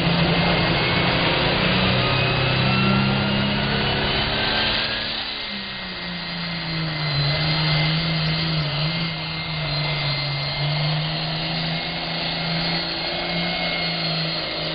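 International 966 tractor's engine running hard under load while pulling the sled, with a high whine that rises over the first few seconds. About five seconds in, the low rumble eases and the engine settles to a steadier note.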